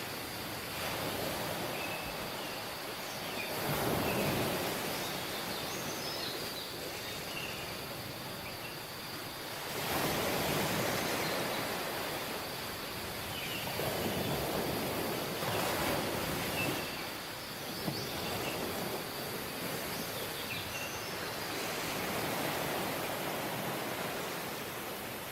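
Sea waves washing onto a tropical beach, the surf swelling and easing every few seconds, with faint high chirps scattered through it.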